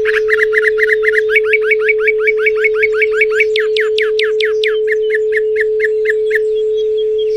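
A steady pure tone at 432 Hz sounds under a songbird singing a fast series of repeated notes, several a second. About a third of the way in the notes become longer downward sweeps, then short notes again, and the song stops a little before the end.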